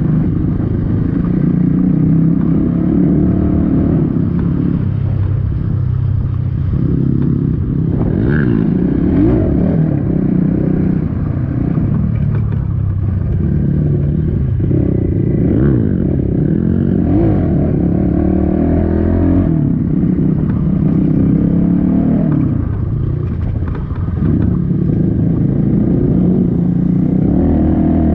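Dirt bike engine running while riding off-road, its revs rising and falling again and again as the throttle is opened and closed, with some rattling.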